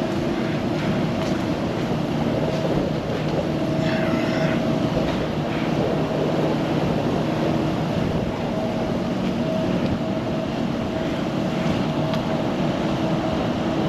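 Steady drone of heavy machinery aboard a lake freighter being loaded, with humming tones that fade in and out over an even rushing noise.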